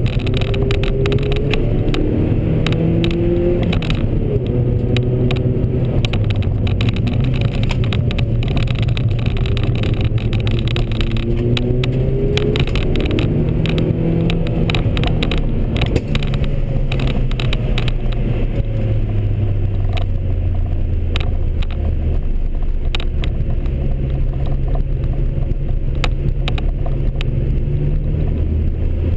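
Ford Fiesta's engine heard from inside the cabin, revving up and dropping back repeatedly as the car is driven hard through the gears on a hill-climb run, with many short clicks and rattles throughout. In the last third the engine settles to a lower, steadier note.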